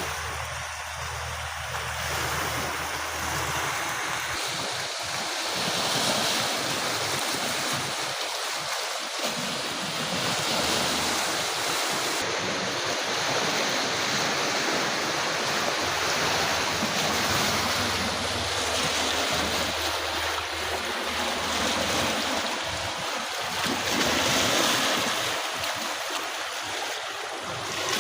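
Sea waves washing onto the shore: a steady rush of surf that swells and eases every few seconds.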